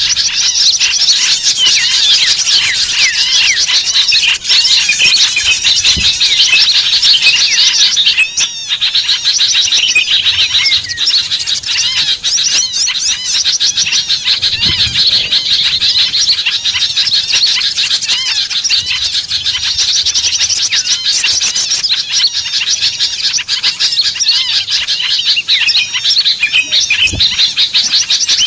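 Dense, continuous high-pitched chirping and twittering of many small birds, a lure call played to draw small birds in. There is a brief break about eight and a half seconds in.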